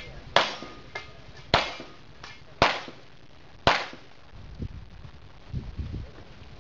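Four loud pistol shots about a second apart, each with a short ringing tail, and fainter cracks in between.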